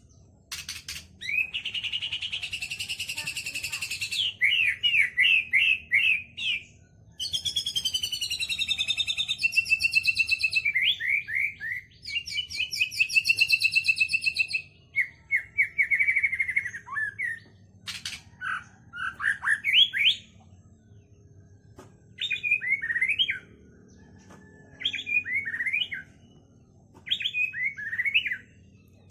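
White-rumped shama (murai batu) singing a long, varied song in phrases separated by short pauses: sweeping whistles, fast repeated notes and rapid chattering runs. The song is filled with mimicry of kapas tembak calls and lovebird chatter.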